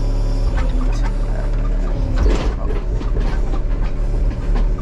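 Case mini excavator's diesel engine running steadily under load. Over it come irregular clanks and snaps as the machine works at a small tree, the loudest a little past two seconds in.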